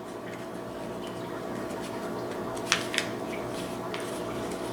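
A sheet of paper being folded and handled, soft rustling with two short sharp crinkles about three seconds in, over a steady low hum.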